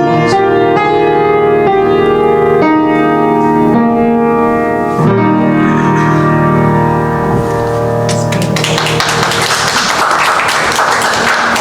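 Closing keyboard chords of a worship song, held and changing every second or two. About eight seconds in, applause takes over.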